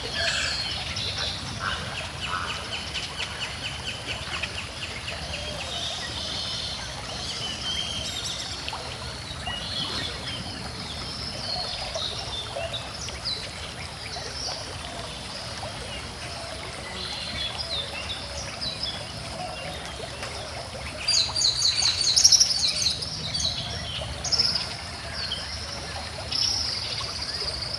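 Several birds singing and chirping over the steady flow of a calm stream, with a short trill early on. About three quarters of the way through, a burst of rapid, high repeated notes is the loudest sound.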